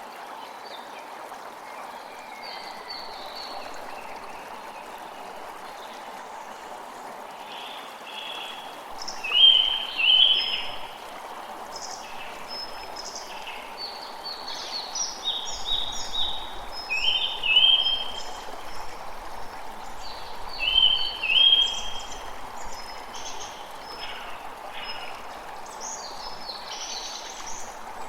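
Steady rush of running water with birds chirping over it in short, high, repeated calls, loudest about a third of the way in and again in the second half.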